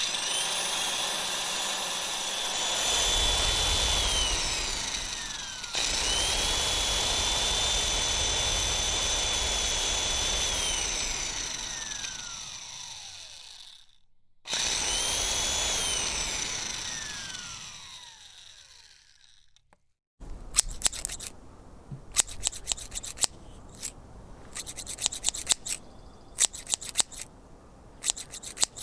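Electric mud mixer motor run three times, each time a steady high whine that falls away in pitch as the motor coasts down. After about twenty seconds it gives way to hand grass clippers snipping over and over in quick, uneven cuts.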